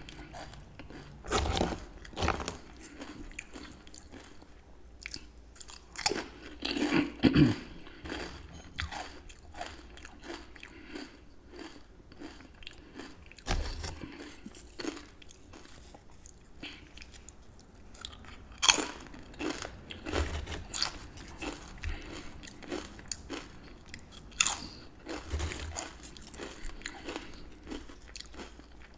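Close-miked bites and chewing of crunchy chips with dip: sharp crunches every few seconds, the loudest about seven seconds in, with steady chewing between.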